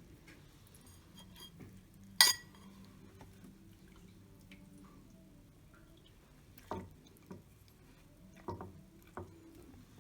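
Kitchen utensils and cookware knocking and clinking: a few separate sharp knocks, the loudest about two seconds in and several more near the end, over a faint steady low hum.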